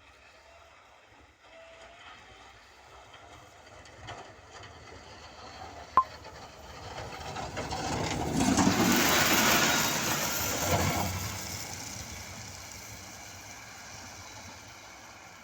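A motor vehicle approaching and passing close by on a road, growing louder to a peak and then fading away. A single sharp click about six seconds in.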